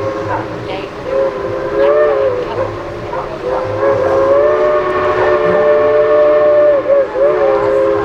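A railroad horn sounding a chord of several notes, held in long blasts with short breaks and brief dips in pitch.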